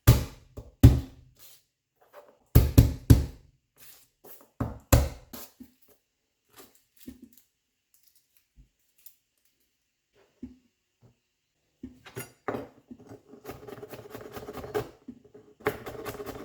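Kitchen work sounds: a handful of loud, sharp knocks, some in quick pairs, then a quiet spell, then a continuous clattering, rustling noise in the last few seconds.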